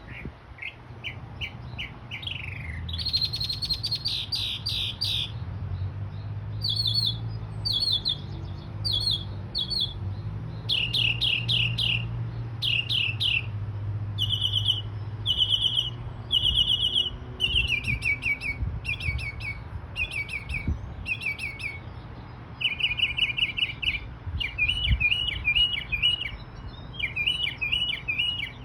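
A bird singing a long, varied song of quick high trills and repeated chirping phrases, separated by short pauses.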